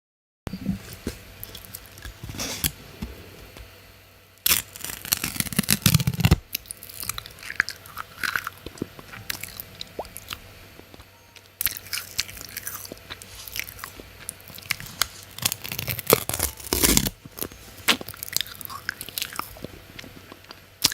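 Crunchy food being bitten and chewed close to the microphone, in irregular crackling crunches that are loudest about four to six seconds in and again near the end.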